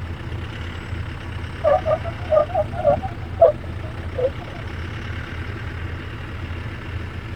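Off-road 4x4's engine running steadily at low revs, as when crawling over rock, with a handful of short squeaks or chirps about two to four seconds in.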